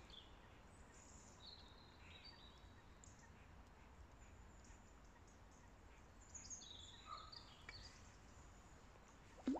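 Near silence, with faint scattered bird chirps and whistles. A short, louder vocal sound comes just before the end.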